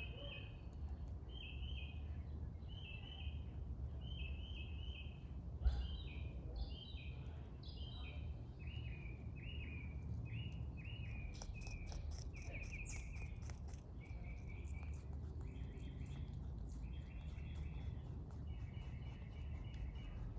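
Small birds chirping over and over in short groups of notes, with a few falling calls a little after five seconds in. From about ten seconds in comes a quick run of crisp clicks, typical of a rabbit chewing close by, and it thins out toward the end.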